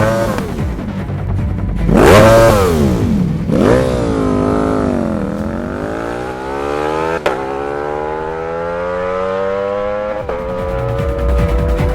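Ducati V4 motorcycle engine through a CS Racing aftermarket exhaust: two quick revs, then a longer run where the pitch dips and climbs steadily, broken twice by short clicks. Background music plays underneath.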